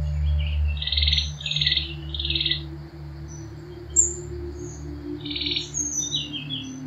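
Bird calls: three short chirps a little over half a second apart, then another group of calls towards the end, over a low steady drone.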